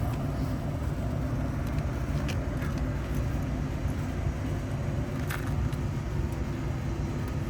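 Steady low rumble of background noise, with a couple of faint clicks about two and five seconds in.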